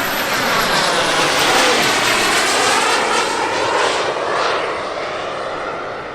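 Turbine engines of a large radio-controlled model jet passing by: a loud jet rush with a thin high whine that falls in pitch over the first couple of seconds, easing off near the end.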